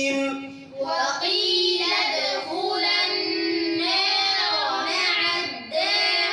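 Children's voices reciting Quran verses in a melodic chant, with long held notes and short breaths between phrases, repeating after the teacher.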